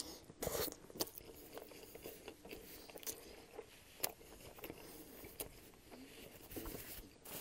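Close-miked chewing of a mouthful of Subway sandwich: soft wet mouth sounds broken by scattered sharp clicks. In the second half, a paper napkin is rubbed over the mouth and hands.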